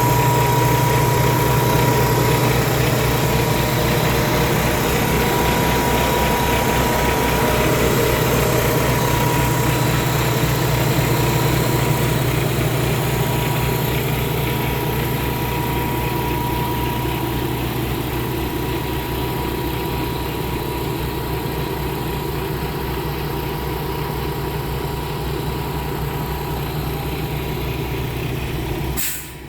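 Paccar MX13 inline-six diesel engine of a Kenworth T680 tractor idling steadily, with an even low pulsing and a steady high whine over it. A sharp click comes near the end, and the sound drops after it.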